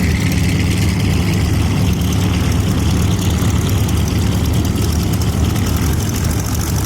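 Twin Pratt & Whitney R-985 Wasp Junior nine-cylinder radial engines of a 1938 Lockheed 12A Electra Junior running steadily at low taxiing power, a low, even rumble.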